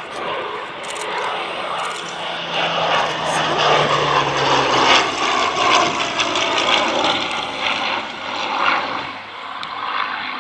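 Propeller-driven aircraft engine flying past, swelling louder through the middle and easing off toward the end.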